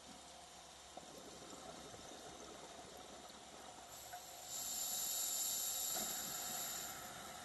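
Scuba regulator hissing as a diver breathes in, one long inhalation starting a little past halfway and lasting about two and a half seconds, over a faint underwater background.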